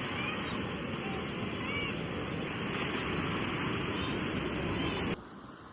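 Ocean surf washing onto a beach, a steady rush with wind on the microphone, that stops abruptly near the end.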